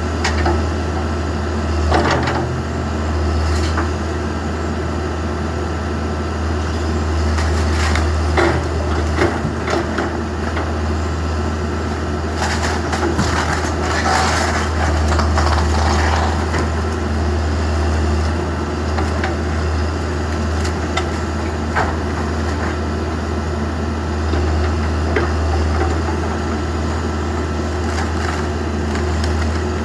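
Backhoe engine running steadily under load while the wooden garage cracks and crunches as it is torn down, with a cluster of splintering crashes about halfway through.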